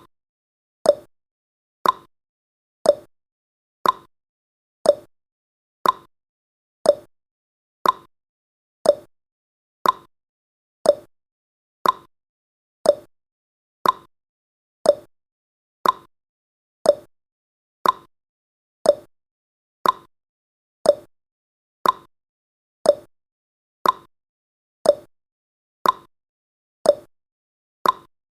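Clock-tick sound effect of a countdown timer: one short, sharp tick every second, evenly spaced.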